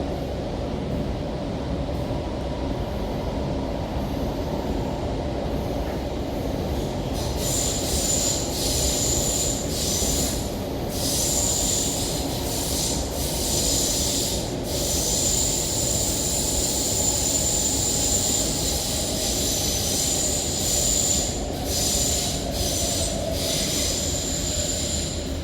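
An MTR Rotem K-train electric multiple unit running, heard from inside the car: a steady rumble of wheels on rail with a motor whine that slowly falls in pitch as the train slows toward the station. From about a quarter of the way in, a high wheel squeal comes and goes.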